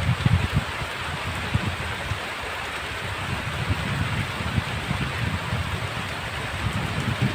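Heavy rain falling steadily as an even hiss, with low, gusty rumbling at the start that eases off and builds again near the end.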